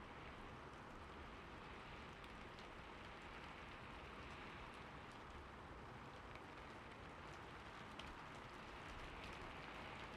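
Soft, steady falling-water ambience, an even hiss of splashing water with a few faint scattered drips.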